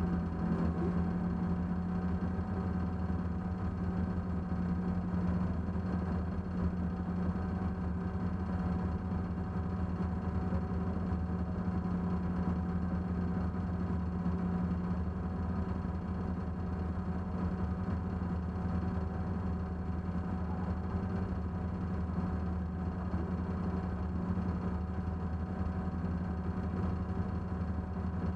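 Race car engine idling steadily, heard from inside the stripped cabin.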